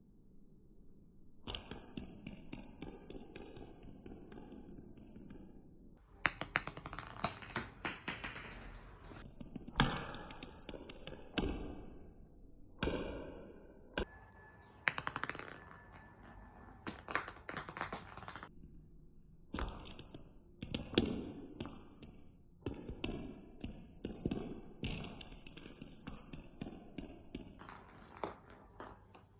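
A cat batting a small ball about the floor, giving irregular taps and light thumps as the ball bounces and is struck.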